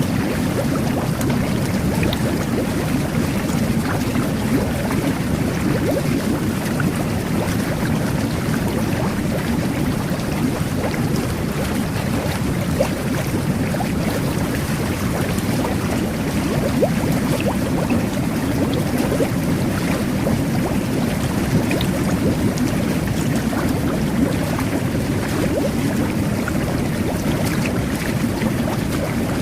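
Jet bath (whirlpool tub) running: water churning and bubbling under the jets. The sound is steady and continuous.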